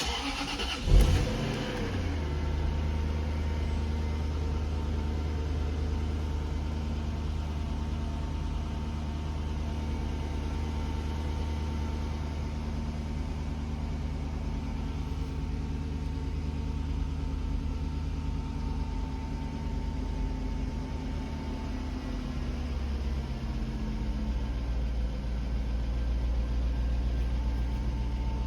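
1997 Jaguar XK8's 4.0-litre V8 cold start: brief cranking, catching about a second in with a short rev flare, then a steady cold idle whose pitch eases down a little about three-quarters of the way through.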